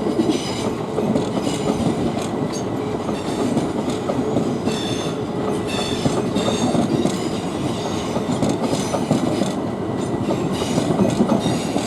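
Southern Class 377 electric multiple unit running past at low speed, its wheels rumbling and clicking over the rail joints and pointwork, with short bursts of high-pitched wheel squeal every second or so.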